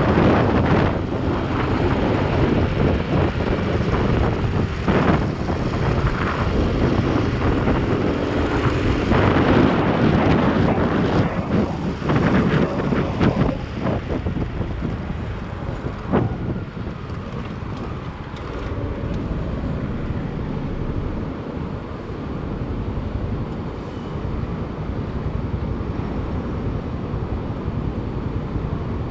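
Motorcycle on the move: engine and road rumble with wind buffeting the microphone, a little quieter in the second half.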